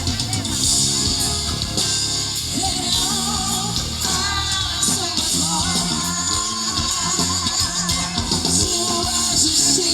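Live band playing a gospel pop-rock song with guitar and drum kit, a female lead voice singing over it from about three seconds in.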